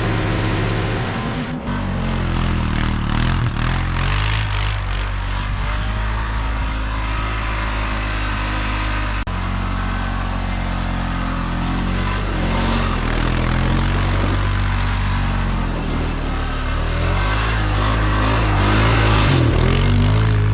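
Small gasoline engine running steadily, its pitch wavering a little, with abrupt cuts about two and nine seconds in.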